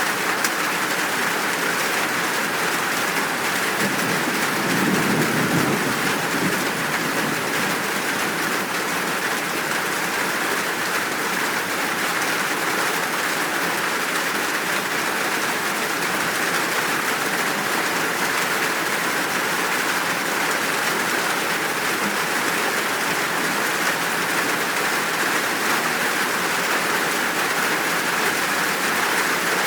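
Steady, heavy rain falling in an even hiss, with a brief low rumble of distant thunder about four seconds in.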